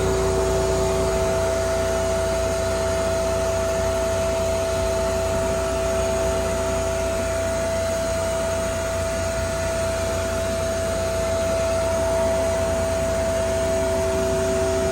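Vacuum cleaner running steadily, its motor giving a constant whine over a rushing hum.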